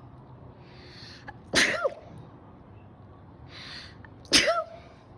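A man's two sharp breaths in through the nose, each followed by a sudden explosive burst of breath out with a brief voice in it, sneeze-like, a little under three seconds apart.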